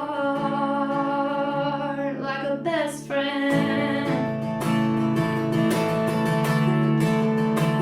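Live acoustic song: a strummed acoustic guitar with a woman singing over it.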